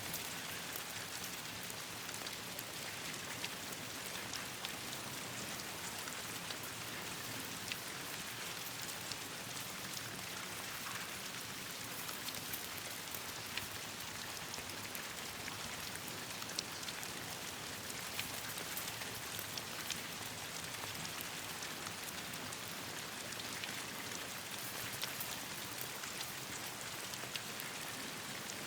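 Steady rain falling on leaves and ground, with scattered sharp pops and crackles from a campfire burning in it.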